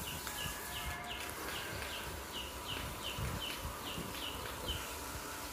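A small bird chirping over and over: short, high chirps that fall in pitch, about three a second.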